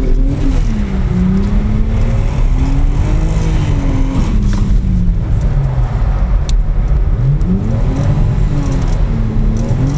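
Car engine heard from inside the cabin, revving up and down under throttle while drifting. The pitch rises and falls about three times, with a sharp climb about three-quarters of the way through.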